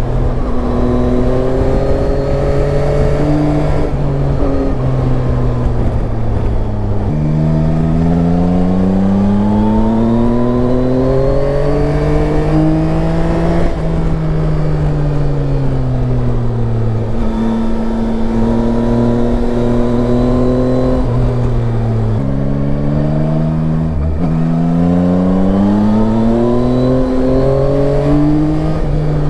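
Yamaha Tracer 9's three-cylinder engine under way, its pitch climbing and falling repeatedly as the rider accelerates and rolls off, with sudden jumps in pitch at gear changes.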